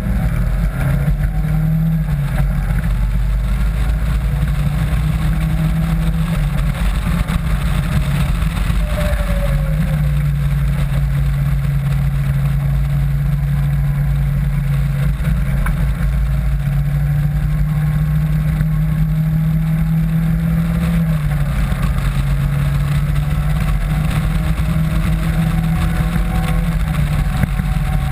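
Caterham 7 Classic Graduate's engine running hard on track, heard onboard from the open car. The engine note holds steady for long stretches and steps up and down in pitch a few times, about two seconds in, around nine seconds in and around twenty-one seconds in.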